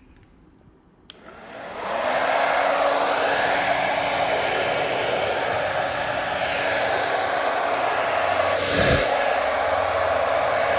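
A small electric blower motor switched on with a click about a second in, spinning up and then running steadily with a loud rush of air, with a brief louder surge near the end.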